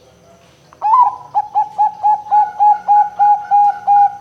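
Zebra dove (perkutut, Bangkok song strain) cooing: about a second in, a loud opening note, then a quick even run of about ten short coos, going into a long held note at the end.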